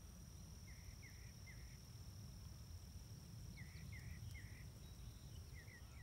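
Faint bird calls, a quick run of three short notes given twice and then two more near the end. Behind them are a steady high-pitched insect drone and a low rumble.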